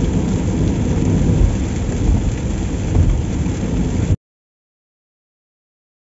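Heavy rain falling, with a deep continuous rumble underneath. The sound cuts off to dead silence a little after four seconds in.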